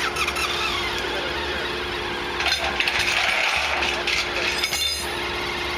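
An engine idling steadily, with a burst of rattling, scraping mechanical noise from about two and a half to five seconds in.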